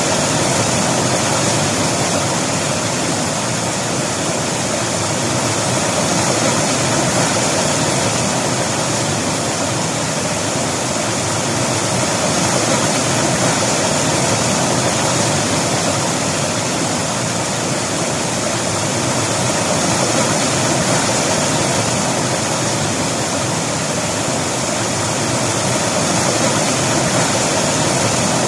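River water rushing and splashing over rocks in a steady, loud wash.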